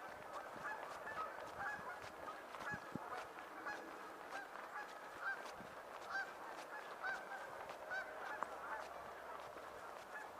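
A flock of geese honking: many short calls overlapping without pause, fairly faint.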